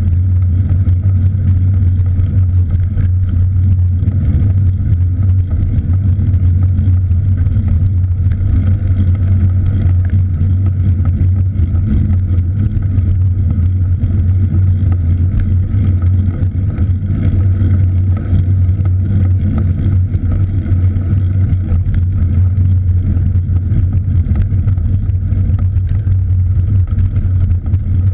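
Steady low rumble of wind and road noise on the microphone of a camera riding on a moving cross bike.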